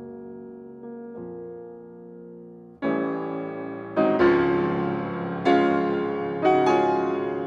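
Background piano music: quiet held chords, then about three seconds in it grows much louder with struck chords roughly once a second.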